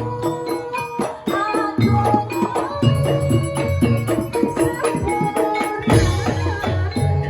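Javanese Jaranan ensemble music: dense struck percussion and drumming over sustained low notes, with a wavering melody line on top.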